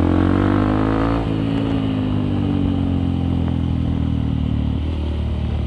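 Honda CRF150L single-cylinder four-stroke engine through a Nofifumi Torc aftermarket exhaust, revving up for about a second and dropping in pitch on an upshift. It then pulls steadily under way and eases off slightly near the end.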